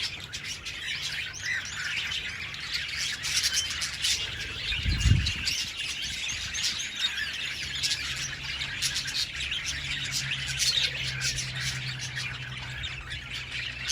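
Budgerigars chattering with a dense run of quick chirps and squawks, and a single low thump about five seconds in.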